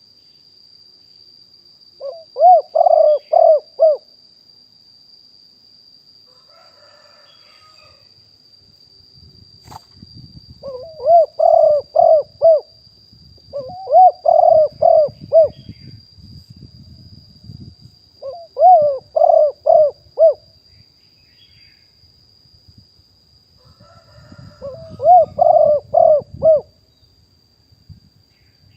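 Spotted dove cooing: five separate phrases, each a quick run of four to six low, rounded coo notes, with pauses of several seconds between them. A faint steady high-pitched tone runs underneath.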